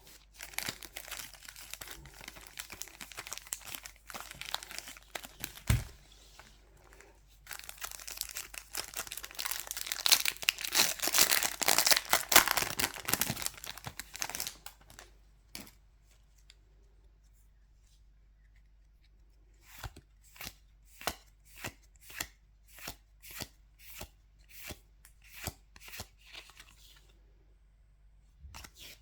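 Foil Pokémon booster pack wrappers being torn open and crinkled, loudest in a long stretch of tearing about a third of the way in. Later comes a run of short, evenly spaced snaps, nearly two a second, as cards are flipped through one by one.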